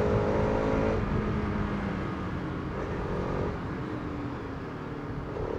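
Bajaj Pulsar RS200's single-cylinder engine running under way, its note strong for about the first second and then easing off, over steady road noise.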